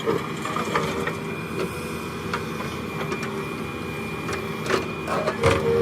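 Diesel engine of heavy earthmoving machinery running steadily, with scattered knocks and clanks, the loudest near the end.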